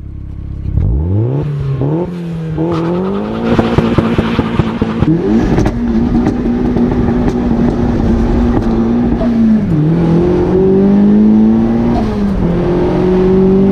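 Turbocharged Mazda MX-5 NB four-cylinder engine accelerating hard: the engine note climbs, then drops at each gear change and climbs again, several times over.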